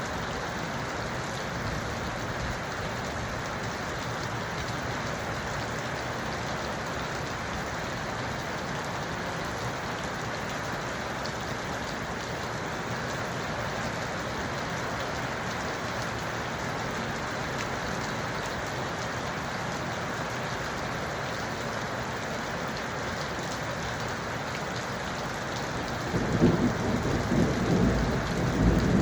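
Steady rain falling, with a low rumble of thunder rising near the end.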